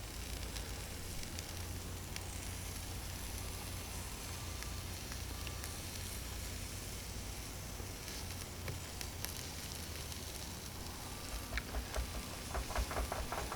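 Chicken sizzling on an alder grilling plank over charcoal in a Weber kettle grill: a steady hiss with scattered small pops. Near the end comes a quick run of light knocks.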